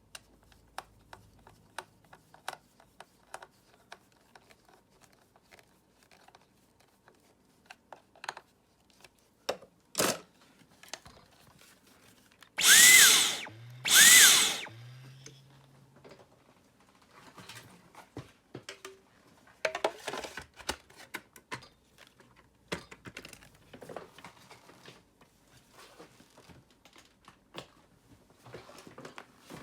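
Dyson vacuum cleaner switched on twice with its trigger, about a second each time. The motor whirs up with a rush of air and leaves a low hum as it runs down. Small plastic clicks and handling noises come before and after.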